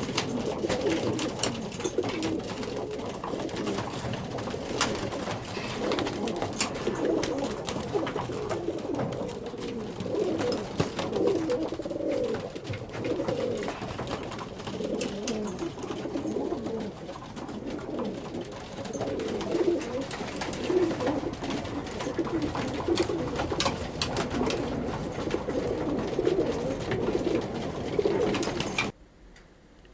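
Many racing pigeons cooing together, a dense continuous cooing with scattered sharp clicks and taps; it cuts off suddenly about a second before the end.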